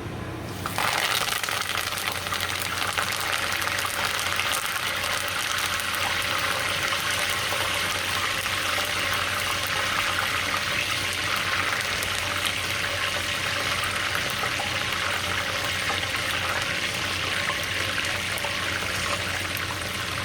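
Curry leaves sizzling and crackling in hot deep-frying oil. The dense sizzle starts suddenly about a second in, as the leaves go into the oil, and then holds steady.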